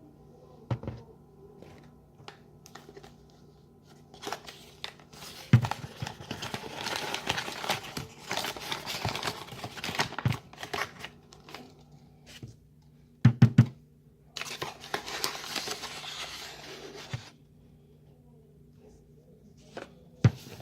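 A bag being handled, crinkling and rustling in two long stretches, with several sharp knocks in between.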